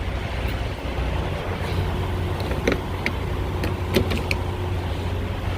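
Steady low rumble of a semi truck's diesel engine idling, with a few light clicks and knocks in the middle of the stretch.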